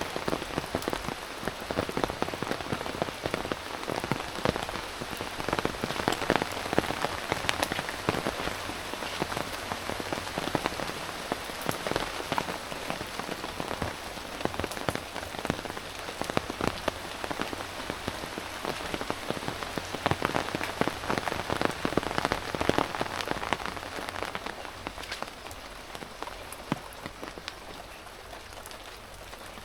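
Rain falling, with many drops striking close by; it eases off a little near the end.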